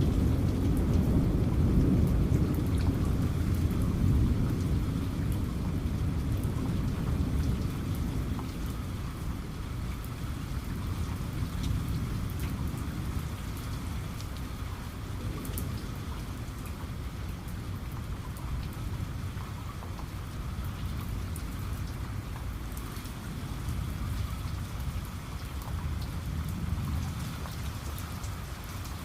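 Steady heavy rain with many fine drop ticks, and a low rumble of thunder at the start that fades away over the first several seconds.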